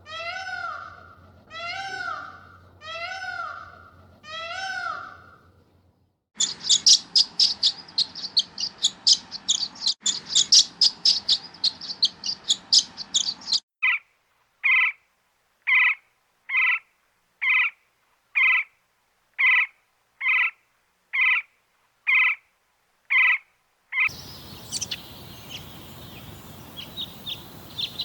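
A string of animal calls, cut from clip to clip. First a cat meows five times, about a second apart. Then a bird chirps rapidly and high, then short calls repeat about once a second, and near the end faint bird calls come over outdoor background noise.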